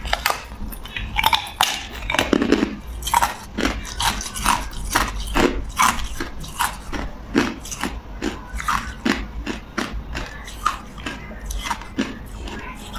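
A person biting and chewing ice: a steady run of sharp crunches, about two to three a second.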